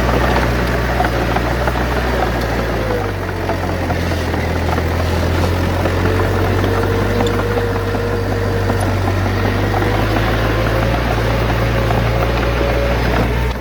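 Bulldozer's heavy diesel engine running steadily, its low drone shifting in pitch a few times as the load changes, with a faint whine above it.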